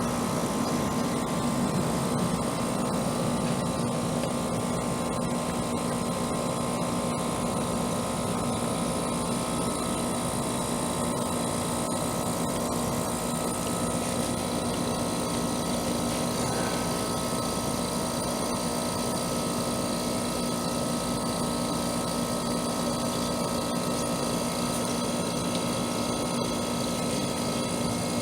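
Trane air-conditioner condensing unit running steadily, compressor and condenser fan together, as a steady hum with a few held tones. The compressor, which would not start on its own, is running with a newly fitted hard-start kit.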